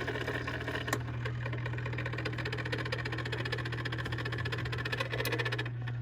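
Whirlpool refrigerator's air damper control assembly running with a rapid, even grinding-clicking over a steady low hum. This is the sound of its motor's plastic gears stripping or sticking.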